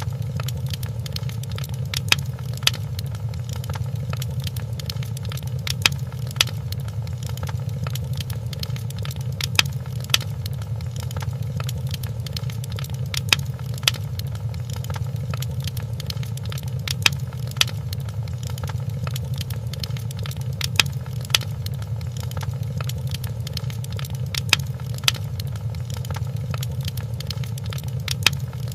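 Wood fire crackling in a fireplace: a steady low rumble of flames with sharp pops and snaps every second or so.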